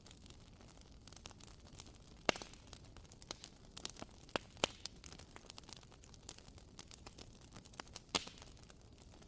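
Wooden wick of a WoodWick candle crackling: irregular soft pops and ticks over a faint steady hiss, with the sharpest pops about two seconds in and near the end.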